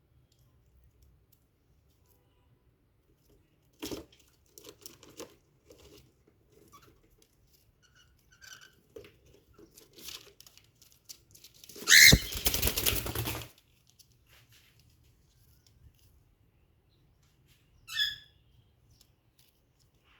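Cockatiel moving about in its nest box: scattered scratching and rustling in the nest material, a loud rustling burst lasting about a second and a half near the middle, and one short chirp near the end.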